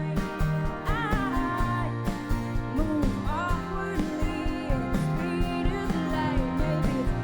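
Live band playing a country-rock song: a steady drum beat under guitars and a sung melody.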